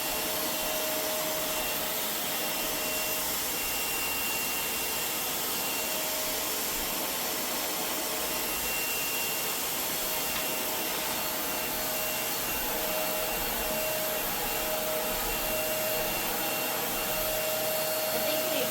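Vacuum cleaner running steadily, picking up hair clippings from the floor, its motor whine holding one pitch throughout.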